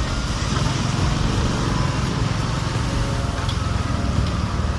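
Honda RS125 FI's 125 cc single-cylinder four-stroke engine running steadily while riding, with wind rushing over the chin-mounted earphone microphone.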